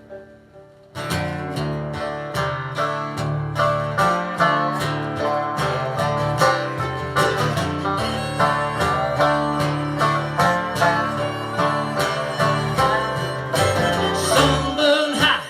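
Live acoustic instrumental intro to a country-folk song: plucked string instruments picking a steady, quick rhythm, starting about a second in.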